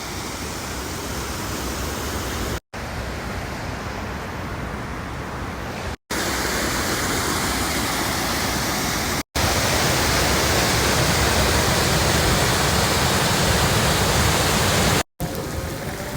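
Steady rushing noise of a heavy downpour, in several clips joined with brief dropouts between them; louder in the second half.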